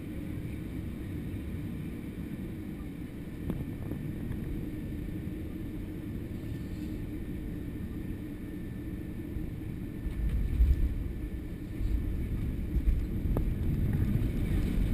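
Airbus A320 jet airliner noise on the approach to landing: a steady low rumble of engines and rushing air, which grows louder and rougher about ten seconds in.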